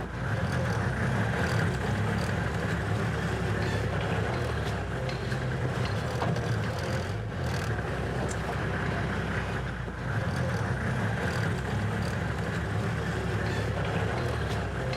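Vehicle on the move: steady engine and road noise with a constant low rumble.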